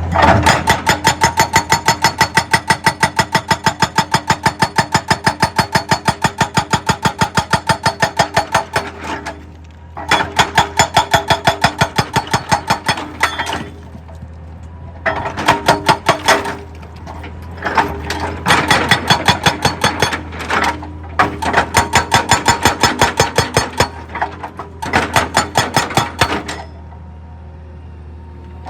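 Excavator-mounted hydraulic breaker hammer pounding rock in rapid, even blows, several a second, in bursts of a few seconds with short pauses. The excavator's diesel engine hums steadily underneath and is heard alone near the end.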